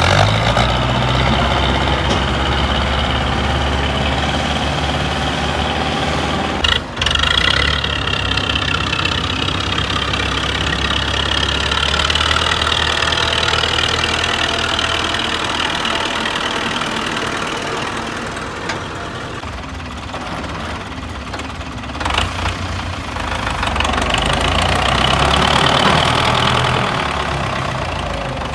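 Diesel tractor engine working hard under load, pulling a heavily loaded sugarcane trolley, its pitch slowly rising and falling. The sound breaks off briefly about seven seconds in and again a little past twenty seconds.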